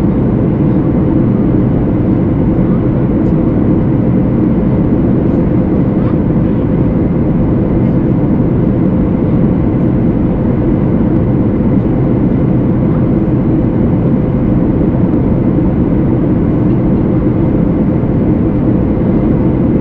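Steady cabin noise of a Boeing 737 MAX 8 in flight after takeoff, heard from a window seat: a deep, even rumble of the CFM LEAP-1B engines and airflow, with a faint steady hum.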